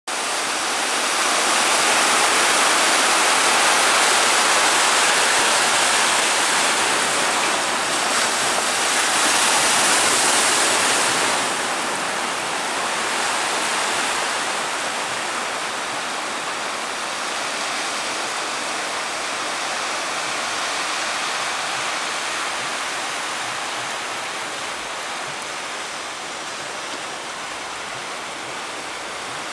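Big ocean waves breaking at a river mouth: a steady rush of surf, louder for the first ten seconds or so and then easing slightly.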